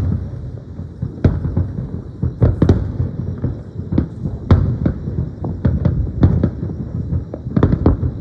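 Aerial fireworks bursting in an irregular string of bangs over a constant low rumble, the bangs crowding closer together near the end.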